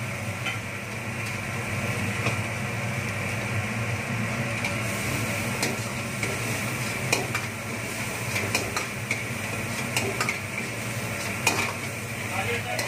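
Chicken in onion masala sizzling in oil in a kadai while a metal spatula stirs and scrapes it, with scattered clicks of the spatula against the pan. A steady low hum runs underneath.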